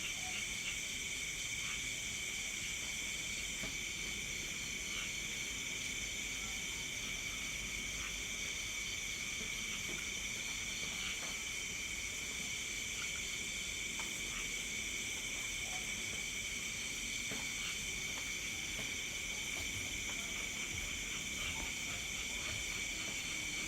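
Night chorus of crickets and other insects: several steady high-pitched trilling tones layered together, one with a fast pulsing beat, at an even level throughout.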